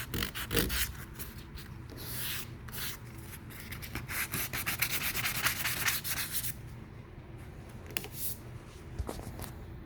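Hand block-sanding of high-build epoxy primer on a car body panel: quick back-and-forth strokes of abrasive rasping over the primer, knocking down orange peel. The strokes stop about six and a half seconds in, leaving a few single light scrapes.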